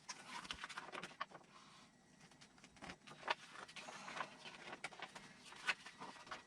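Faint rustling with scattered light clicks and taps: hands handling kit parts and their packaging at a workbench.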